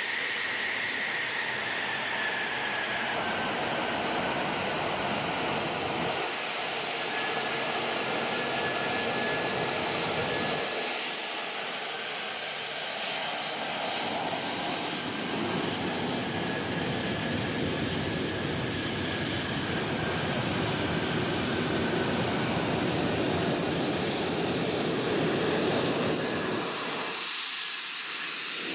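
Jet aircraft engine running: a steady loud rush with a high whine over it, a whine that falls in pitch near the start, and the rush briefly thinning twice.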